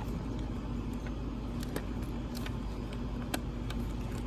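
Steady low hum of a running air-conditioning unit, with a few light clicks from handling a leather planner cover.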